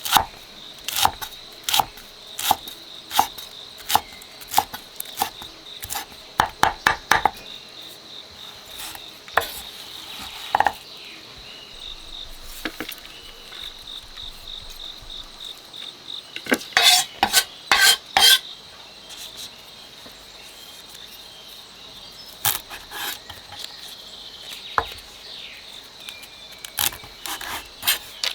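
Irregular clinks and scrapes of a metal utensil on cookware, in a cluster about two-thirds of the way through, over a steady high-pitched drone of insects.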